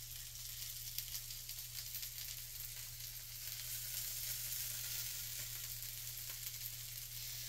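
Food frying on a hot cooking surface: a steady sizzling hiss with scattered small pops and crackles, over a steady low hum.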